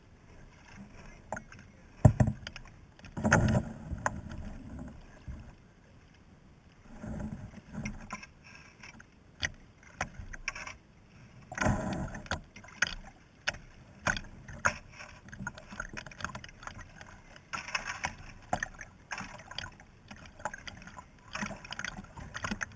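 Kayak being paddled: irregular paddle splashes with knocks against the hull, several of them louder thumps.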